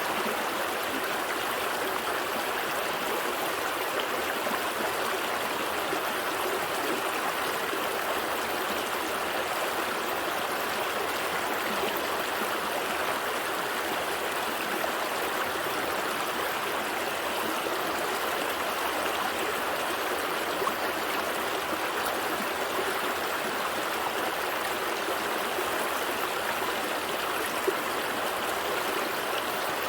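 A gentle stream flowing, a steady even rush and babble of water. A single faint click sounds near the end.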